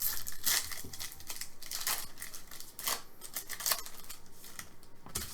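Hockey card pack being handled: the foil wrapper crinkles and stiff cardboard cards slide and flick against each other in a series of short, sharp rustles.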